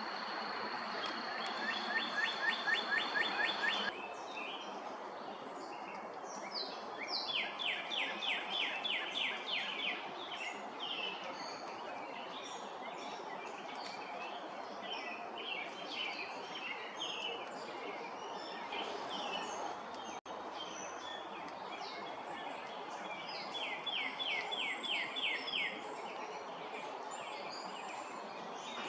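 Songbirds singing over steady outdoor background noise: several short chirps and, three times, a rapid trill of about ten evenly spaced notes a second lasting two to three seconds.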